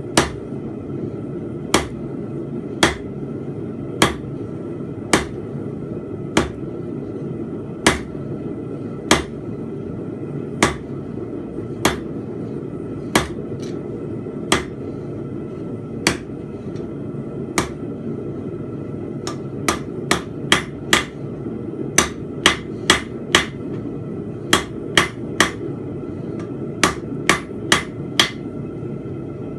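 Blacksmith's hammer striking a steel bar on an anvil while drawing out a taper. Single blows come about a second apart, then from about two-thirds of the way in they come in quicker runs of two to three a second, over a steady low roar.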